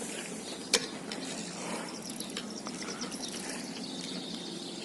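Fishing reel ratcheting: a sharp click early, then a fast, even run of clicks from about two to three and a half seconds in, over a steady outdoor hiss.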